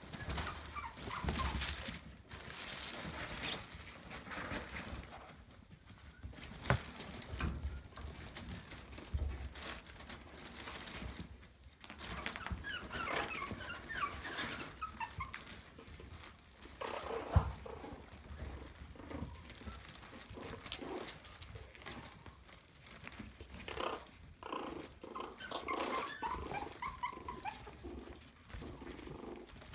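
Maltese puppies squeaking and whimpering in short, high bouts about halfway through and again near the end, over a low rustling, with a couple of sharp knocks.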